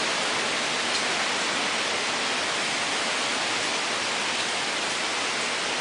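Steady rush of wind and rain from a tornadic thunderstorm.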